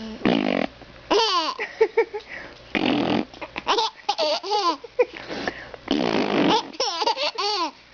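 A baby laughing hard in repeated short, breathy bursts, mixed with a woman's silly vocal noises that set him off.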